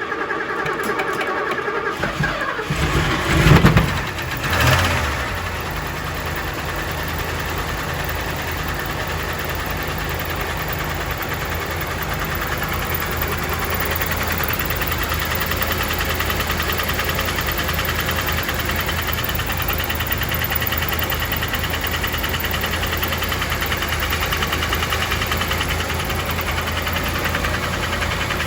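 Mercedes-Benz 450 SL V8 engine being started: a couple of seconds of cranking, then it catches with two quick revs about three and a half and four and a half seconds in, and settles into a steady idle with a knocking sound.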